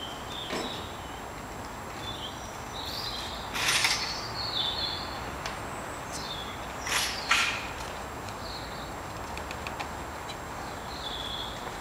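Outdoor ambience with birds chirping now and then, and two brief louder noises about four and seven seconds in.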